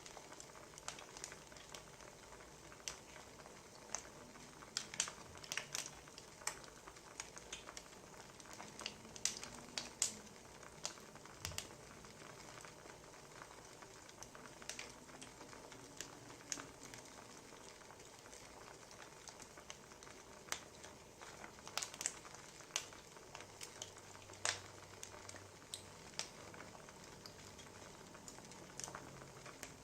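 Wood fire crackling softly: irregular sharp pops and snaps of burning firewood over a low hiss.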